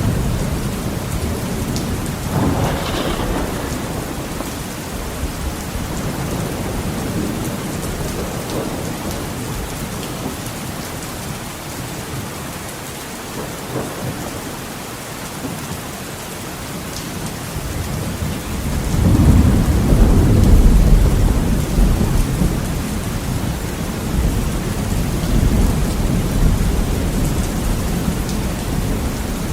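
Heavy rain falling steadily on a window, with a sharp crack of thunder about three seconds in. A long, low thunder rumble swells about eighteen seconds in and fades slowly.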